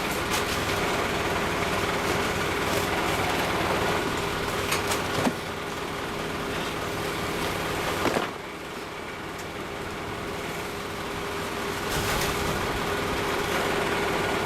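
A motor engine running steadily, with a few sharp metallic knocks; it eases off just after the 8-second mark and picks up again about 12 seconds in.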